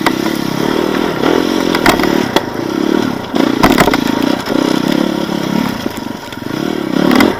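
Off-road motorcycle engine revving up and dropping back in repeated surges as it is ridden over rough ground, with several sharp knocks and clatter from the bike.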